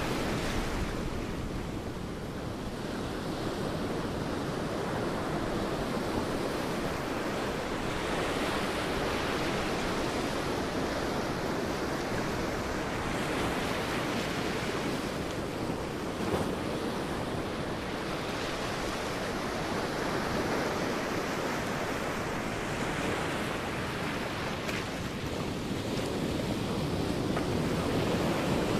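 Sea waves breaking on a beach, a steady wash of surf that swells and eases every few seconds as waves come in and draw back, with some wind.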